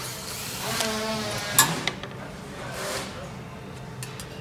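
Power screwdriver backing out the top screws of a wood stove's steel side panel: a whirring run rising in pitch for about a second and a half, a sharp metallic click, then a second short whir about three seconds in.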